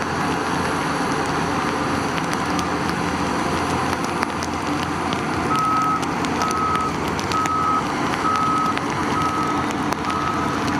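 Heavy diesel machine running with its reverse alarm beeping at about one and a half beeps a second, faint at first and clearly louder from about halfway through.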